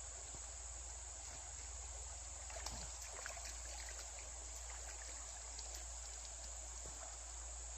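Trout creek water running steadily under a constant high insect drone. A few faint small clicks come about three seconds in.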